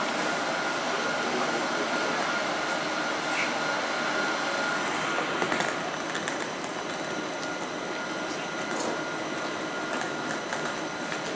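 Electric passenger train running past along the platform: a steady rushing rumble with a thin constant whine, a few clicks about five seconds in, then easing off slightly as the train moves away.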